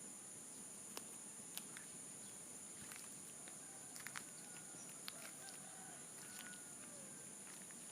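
A rooster crowing faintly in the distance, one rising and falling call in the middle, over a steady high-pitched hiss with scattered faint clicks.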